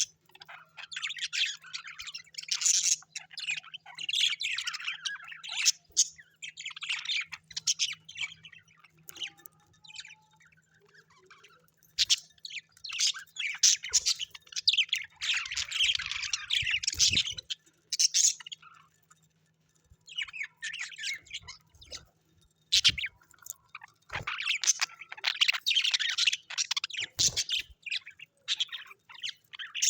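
Small birds chirping and chattering in rapid, busy bouts, with short squawks mixed in. The bouts fall quiet briefly about ten seconds in and again around twenty seconds in.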